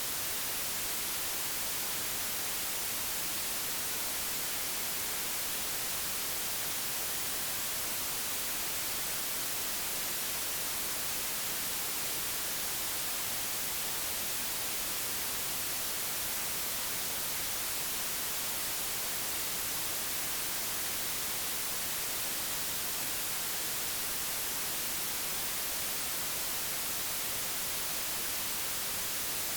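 Steady, unchanging digitally generated white noise: an even hiss with no events or variation.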